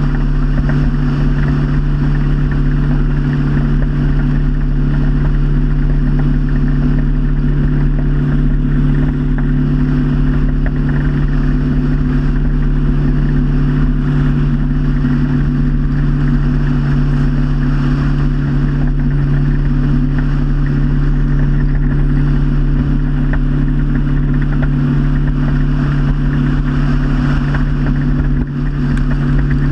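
Motorboat engine running steadily at cruising speed, with a constant rushing of water and air over it.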